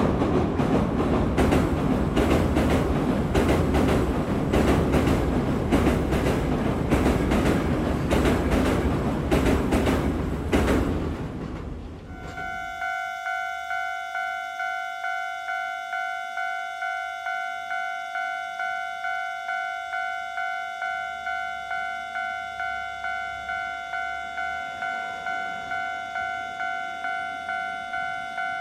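Toei 5500-series electric train running over a girder bridge, its wheels clacking at a regular beat over the rail joints. About twelve seconds in, this cuts off suddenly and a railway level-crossing warning bell dings steadily, about one and a half rings a second.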